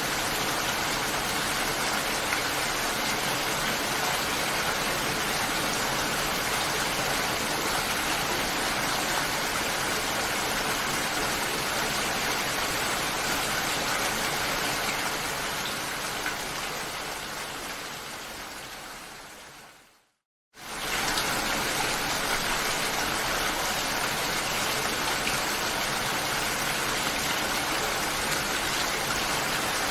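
Steady rain falling, an even hiss. About two-thirds of the way in it fades away to a moment of silence, then starts again suddenly at full level.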